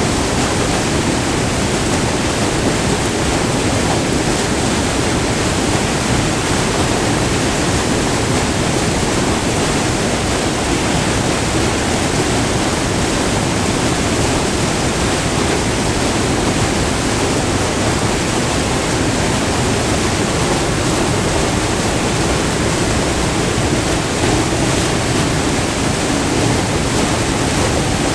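Close-up white water of a short, multi-tiered river waterfall rushing over rock in a loud, steady roar.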